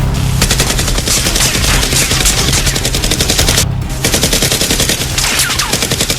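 Rapid automatic gunfire sound effect in long bursts, many shots a second, with a brief break a little past the middle.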